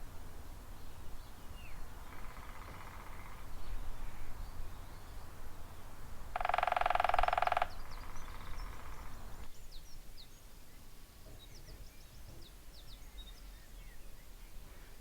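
Woodpecker drumming: a fainter roll about two seconds in, then a louder roll about six seconds in lasting just over a second. Small birds chirp in the second half.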